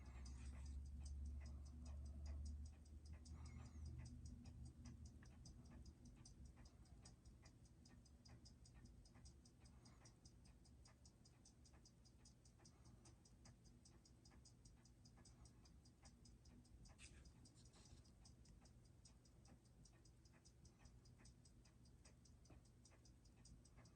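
Faint, even ticking of a Seiko 6R15 automatic watch movement's escapement, under test for an erratic beat-error reading; a low rumble sits under it for the first few seconds.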